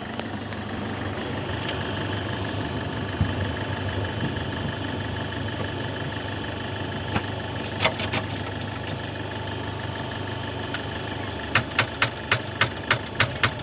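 A car engine idling steadily. Near the end, rapid clicking begins, about four clicks a second, from the Opel Vectra's starter solenoid chattering when the key is turned, without the engine cranking: the battery is too flat, with dead cells, to turn the starter.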